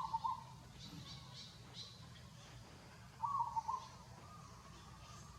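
Two short animal calls about three seconds apart, each a quick broken phrase of a few notes, over faint high chirping and a steady low hum.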